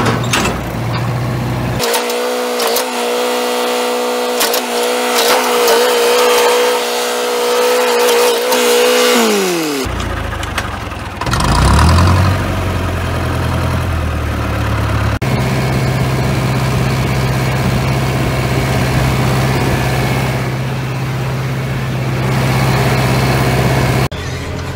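A motor vehicle's engine running steadily. In the first half a higher, steady drone takes over for several seconds, then falls in pitch and stops, and the low engine drone carries on.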